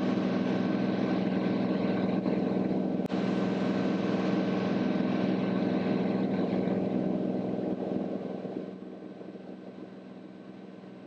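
Steady cockpit drone of the Cirrus SR22T's turbocharged six-cylinder engine and propeller in flight, a deep even hum with hiss on top. About eight seconds in it drops noticeably quieter and duller.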